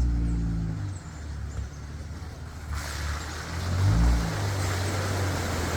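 Jeep Gladiator's engine running at low revs as it drives into a deep muddy water pit. From about three seconds in, a rushing splash of water joins it, with a brief swell in the engine about four seconds in.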